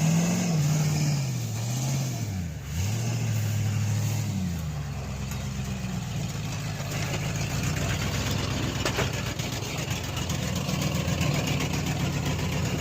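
Pickup truck engine revved up and down several times, then settling into a steady idle about five seconds in.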